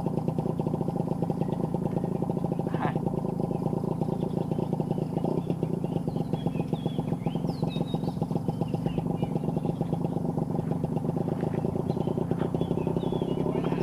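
A small engine running steadily, with faint short high bird chirps in the middle.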